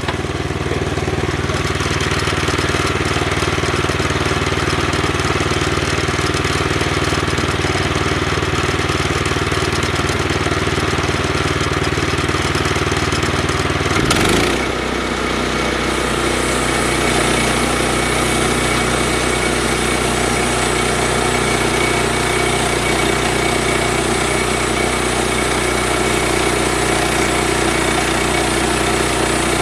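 An engine running steadily; about halfway through its pitch sweeps briefly and it settles into a different running speed.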